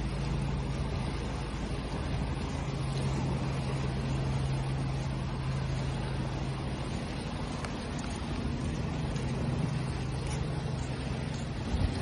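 Steady rush of ocean waves with a constant low hum underneath, like an engine.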